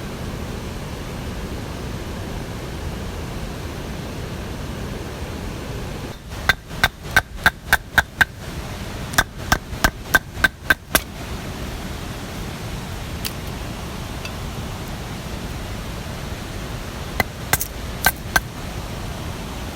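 Two quick runs of about seven sharp, ringing knocks each, roughly four a second, with a few more knocks near the end, over a steady rush of water or rain.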